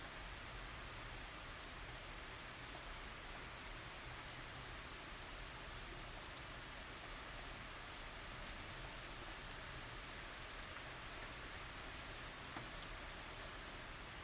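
Steady tropical rain falling, an even hiss with many small drop ticks and no thunder.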